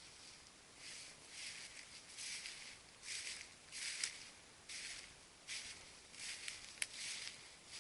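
Footsteps walking through dry fallen leaves, a crunching swish with each step at a little under one step a second, with a sharp click near the end.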